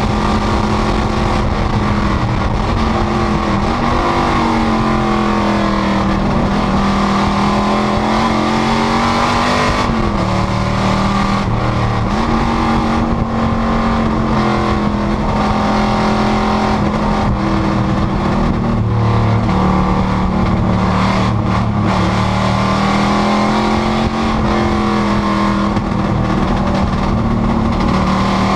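Panoz GTS race car engine running hard at race pace. Its pitch climbs and drops several times as it accelerates, shifts and slows for corners.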